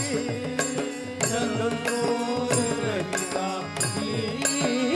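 Devotional bhajan music: a held drone and a wavering melody line over drum strokes whose bass glides downward, with sharp cymbal-like strikes keeping time about every two-thirds of a second.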